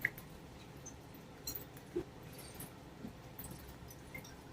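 Quiet room with a handful of faint, short clicks and taps scattered through it.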